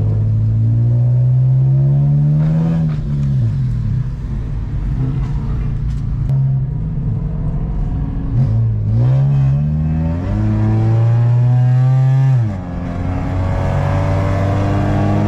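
Car engine accelerating hard through the gears: the pitch climbs, falls sharply at upshifts about three seconds in and again about twelve seconds in, and climbs once more toward the end.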